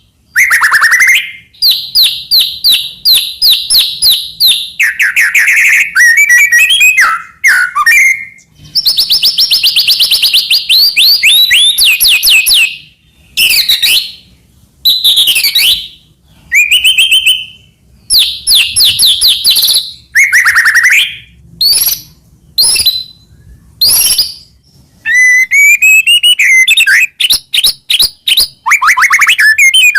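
White-rumped shama (murai batu) singing loudly in a full, varied song: bursts of rapid trills and quick repeated notes, some sharp sweeping whistles, broken by short pauses between phrases.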